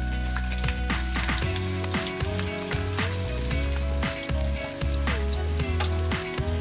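Garlic and chopped red onion sizzling and crackling in hot oil in a stainless steel wok, stirred with a metal spatula, over background music with sustained notes.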